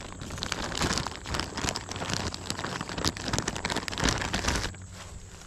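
Footsteps crunching through dry brush and vegetation: many quick irregular crackles and rustles close together, quieter near the end.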